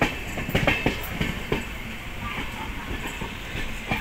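Mumbai CSMT–Nagercoil Express running on the track, heard from on board: a steady rumble with sharp wheel clacks on the rails, several in the first second and a half and another near the end.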